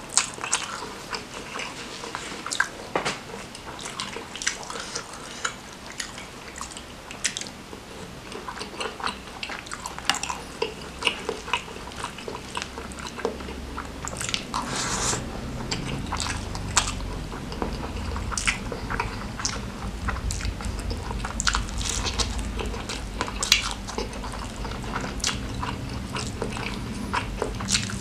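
Close-miked chewing, biting and wet mouth smacks of a person eating rice mixed with spicy noodles by hand: an uneven stream of short clicks and smacks. A low rumble comes in underneath about halfway through.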